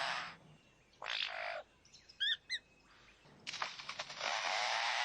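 Lyrebird calling: a few quick, sharp chirps a little over two seconds in, between bursts of hissing noise. The longest burst starts about three and a half seconds in and holds steady.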